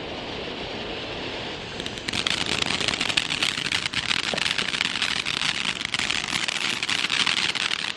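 A consumer firework hissing and crackling steadily, with dense rapid crackles. It starts about two seconds in, over a steady background rush, and cuts off abruptly near the end.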